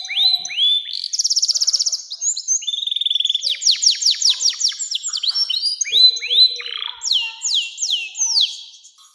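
Domestic canary singing a long continuous song: rapid trills and runs of repeated falling whistled notes, one phrase after another, fading near the end.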